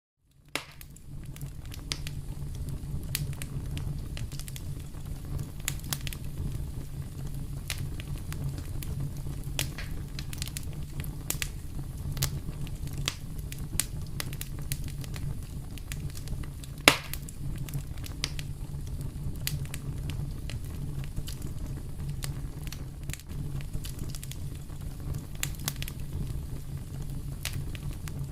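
Fireplace fire crackling: scattered sharp pops and snaps over a steady low rumble, with one much louder pop a little past halfway.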